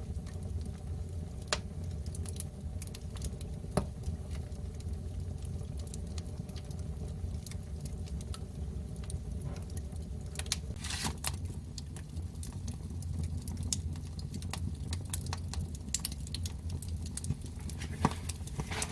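Wood fire burning in an agungi firebox: scattered sharp pops and crackles over a steady low rumble. There is a brief flurry of crackling about eleven seconds in.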